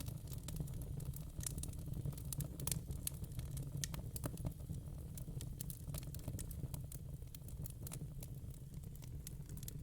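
Wood fire in a fire pit crackling: irregular sharp pops and snaps over a steady low rumble.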